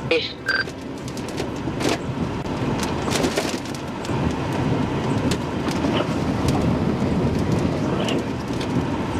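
Strong tornado winds rushing around a storm-chasing vehicle as it drives into the circulation, with many sharp knocks and clicks of things striking the vehicle. The loudness builds over the first few seconds.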